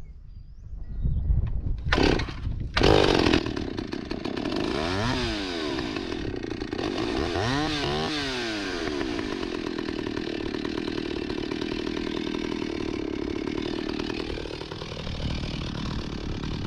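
Stihl 028 Wood Boss chainsaw pull-started, catching about three seconds in, then running steadily with a couple of brief changes in pitch; it runs on a freshly welded muffler and is much quieter than with the broken one.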